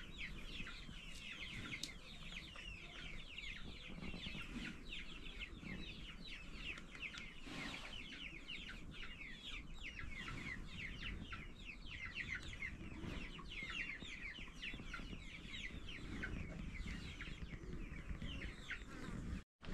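Birds chirping without pause, many short falling calls overlapping one another.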